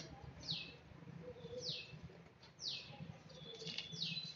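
A small bird calling repeatedly: short high chirps that slide down in pitch, about one a second, over a faint low hum.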